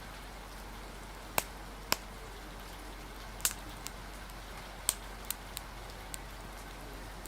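Steady rain hiss with a wood fire crackling: about seven sharp pops scattered through, a few coming close together around the middle.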